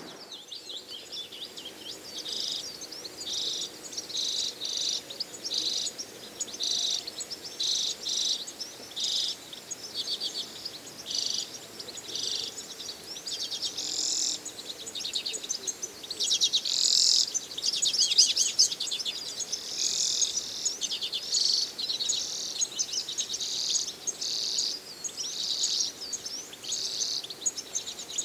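A flock of redpolls calling: short, rapid chattering calls repeated about once a second, overlapping more often in the middle stretch.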